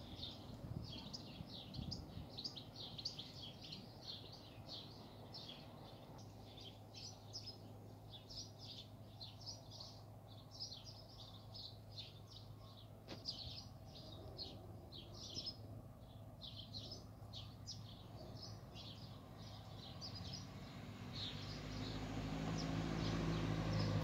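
Small birds chirping busily, many short high chirps overlapping. A low steady hum sits underneath and grows louder over the last few seconds.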